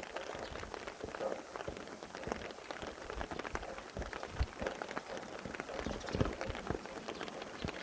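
Steady rain falling, with many separate drops striking close by in a dense, irregular ticking over an even hiss.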